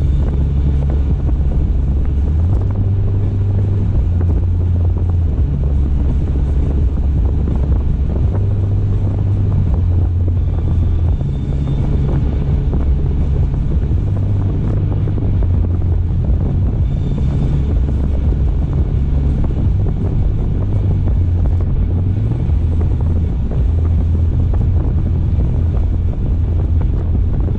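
Steady low rumble of a car on the move: road and tyre noise with wind, heavy in the low end and shifting slightly every few seconds.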